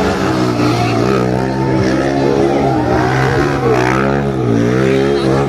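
Motorcycle engines running, with a steady low engine hum and the note rising and falling as they are revved.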